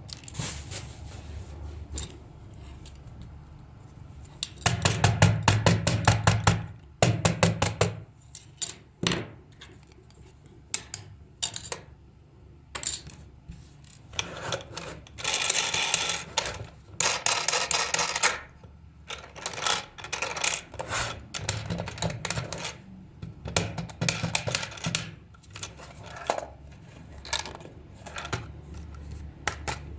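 Small hard parts being handled, clicking and rattling, with a quick run of clicks about five seconds in and a couple of seconds of scraping in the middle.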